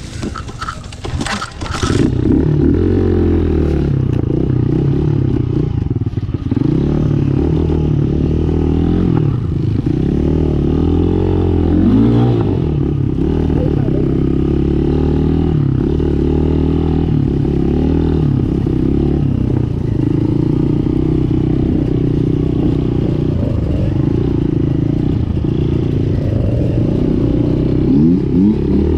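Dirt bike engine running and revving up and down continuously while being ridden, heard muffled. A few sharp clattering knocks come in the first two seconds before the engine sound rises.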